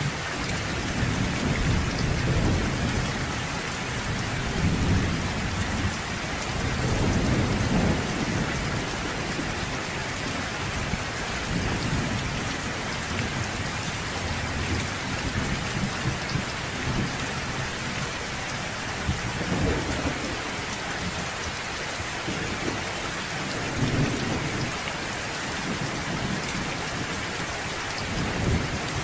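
Steady rain of a thunderstorm, with low rolls of thunder that swell and fade several times, the strongest in the first eight seconds.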